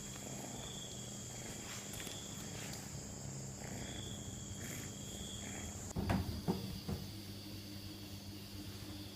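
Steady high-pitched chirring like insects, over a low steady hum, with a few sharp knocks about six seconds in, where the high tone drops in pitch.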